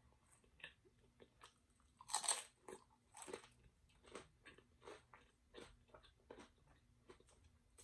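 Tortilla chip dipped in queso bitten with a loud crunch about two seconds in, then chewed steadily with softer crunches, about two a second.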